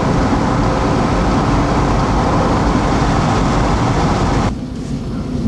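Loud, steady rumble of thunder from a nearby cloud-to-ground lightning strike, dropping off sharply about four and a half seconds in.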